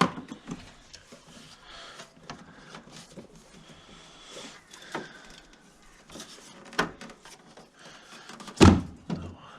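Scattered knocks, clicks and rattles of the air filter box and intake pipe being worked loose and pulled out of a Ford Ka's engine bay, with a loud knock about a second before the end.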